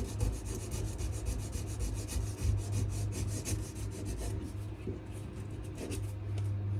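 Sanding a wenge-and-maple knife handle: quick, even rasping strokes of abrasive on wood, several a second, that die away near the end.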